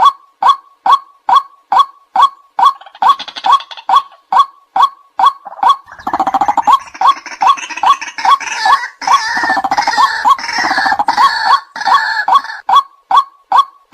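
White-breasted waterhen calling: a steady run of short, evenly repeated notes, about two and a half a second. From about 6 s to near the end, more calls pile in and overlap, louder and harsher, then the single steady series carries on alone. This is a recorded waterhen call of the kind played to lure the birds in.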